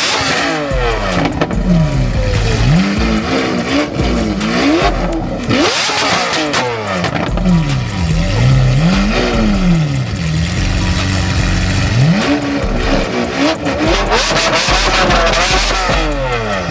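A car engine revved over and over, its pitch climbing and dropping again about every second or two.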